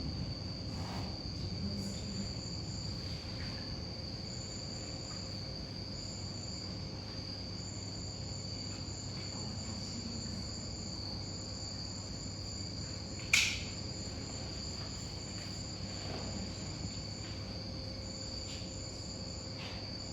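Steady high-pitched insect-like chirring, with a second, higher tone cutting in and out, over a low steady hum. A single sharp click comes about thirteen seconds in.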